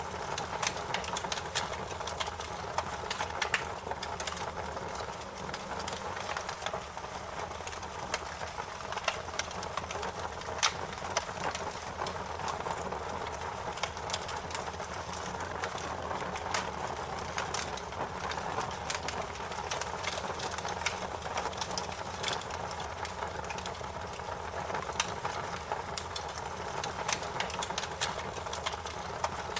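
Wood fire crackling, with irregular sharp snaps and pops over a steady hiss and low rumble.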